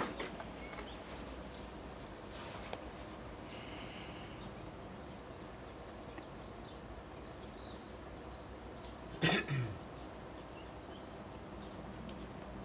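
Insects, crickets or the like, buzzing steadily at a high pitch as outdoor background, with one short louder sound about nine seconds in.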